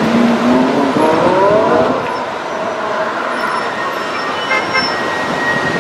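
A car engine accelerating, its pitch rising over the first two seconds, over steady city traffic noise.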